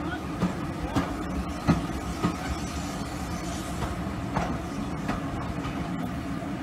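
Railway passenger coaches running past close by: a steady rumble of wheels on the rails with several sharp clacks at uneven intervals as the wheels cross rail joints.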